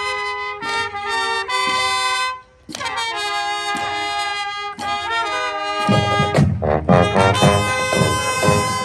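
A band playing, led by trumpets and other brass in held chords, with a short break in the music about two and a half seconds in. About six seconds in the music gets louder and fuller, with a heavy low end and a steady beat.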